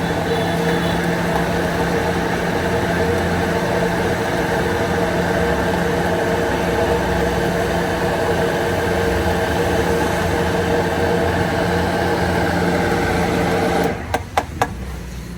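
Electric blender motor running steadily as it blends a fruit smoothie, then cutting off about a second before the end, followed by a few sharp knocks.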